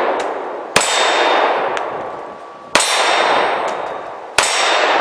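Loud metallic clangs about every second and a half to two seconds, each left ringing and slowly fading, with fainter sharp clicks between them.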